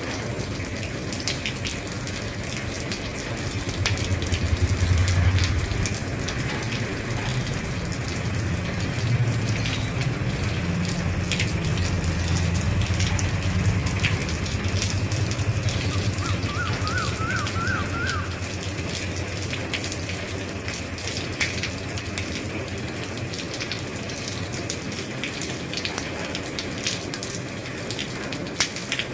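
Steady rain falling on an old roof, with many sharp drops ticking on it. A low rumble swells up after a few seconds and fades out past the middle, and a brief run of high chirps comes just after the middle.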